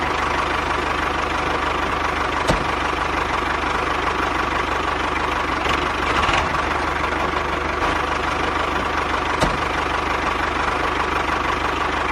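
Small hobby DC motor of a homemade model tractor machine running steadily with a whirring hum, with two brief clicks partway through.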